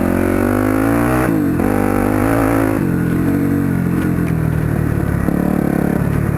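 1999 Yamaha YZ400F's four-stroke single-cylinder engine running as the dirt bike is ridden with a snapped clutch cable. Its pitch rises twice in the first three seconds, then settles to a steadier, lower note.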